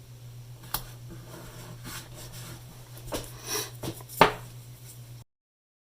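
Small handling noises from cutting and working two-sided tape: a click under a second in, rustling around three seconds, and a sharp loud click just after four seconds, over a steady low hum. The sound then cuts out abruptly.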